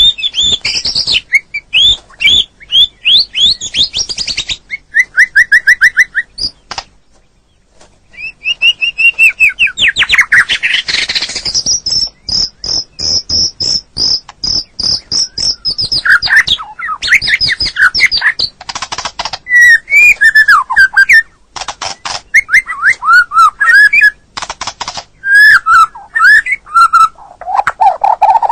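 White-rumped shama (murai batu) song, loud and varied: fast whistled phrases and glides mixed with rapid clicking chatter, with a long even trill near the middle and a short lull about seven seconds in.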